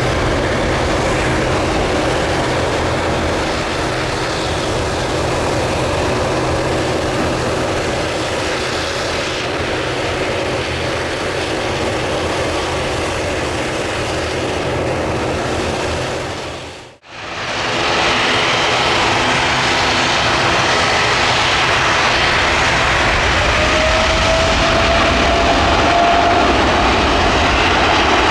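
Jet engines of a departing WestJet Boeing 737 MAX 8 airliner running steadily. About seventeen seconds in, the sound dips out briefly and gives way to the louder engines of a departing WestJet Boeing 787-9 Dreamliner, with a slightly rising whine near the end.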